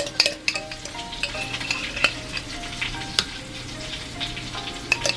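Oil sizzling and crackling with fries frying, mixed with a spoon scooping and clinking against a bowl as vegan mayonnaise goes in. The sound is an irregular run of sharp clicks and crackles.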